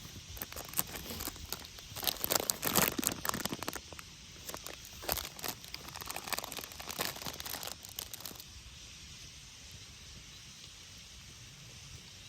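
Dry crinkling and crunching, something being crumpled or broken by hand, in quick irregular crackles for about eight seconds and then stopping suddenly.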